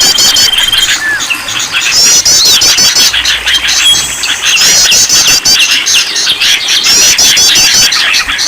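Dense mix of many small songbirds chirping, whistling and trilling, with a rapid trilled phrase that comes back several times. It is a bird-lure (pikat) recording, played to get caged songbirds singing.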